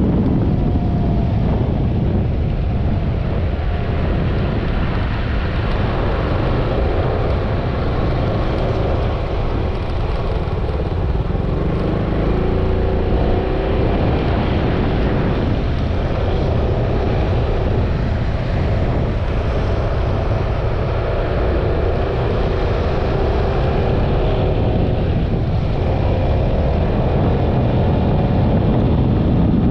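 Yamaha XMAX 300 scooter's single-cylinder engine running at riding speed, with steady wind rush over the microphone.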